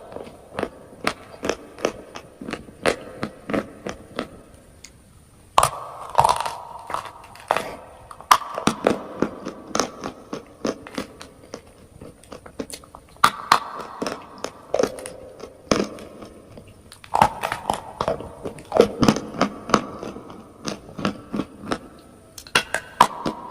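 A person biting into and crunching chalk and clay close to the microphone: a sharp bite every few seconds, each followed by a run of crisp, crackly chews.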